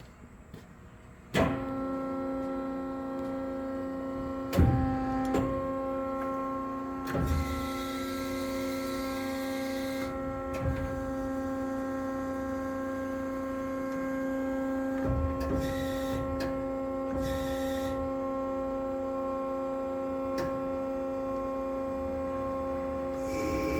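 Hydmech V-18 bandsaw's electric motor switching on with a sharp click, then running with a steady hum. Several knocks and a few short hissing bursts come from the machine as it runs.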